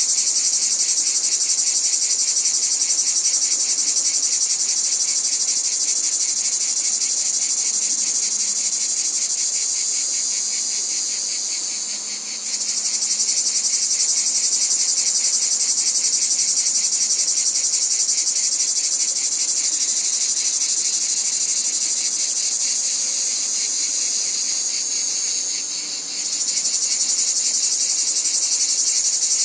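A dense chorus of insects, a continuous high, finely pulsing trill. It eases off twice, near the middle and near the end, and comes back suddenly each time.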